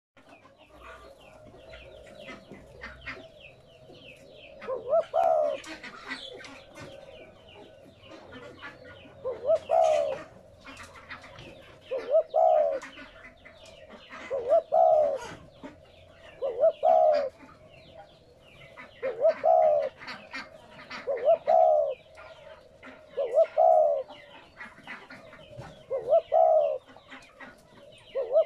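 Spotted dove cooing: a low, repeated coo phrase that begins about five seconds in and then comes again roughly every two to two and a half seconds, about nine times. Faint high chirps and clicks sound between the phrases.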